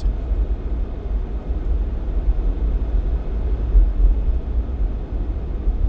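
Steady low rumble of a Jeep Cherokee XJ on the move, heard inside the cab: engine and tyre noise on a snow-covered mountain road.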